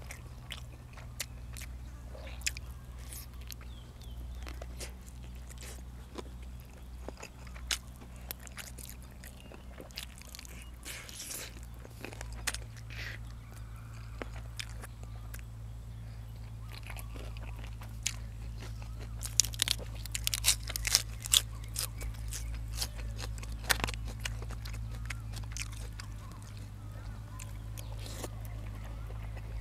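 A person eating close to the microphone: chewing with sharp, crisp crunching bites. The crunches come thickest and loudest about two-thirds of the way through, over a steady low hum.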